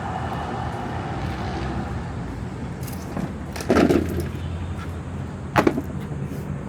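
Steady road-traffic rumble, with two short knocks or scrapes, the first a little before four seconds in and a sharper one less than two seconds later.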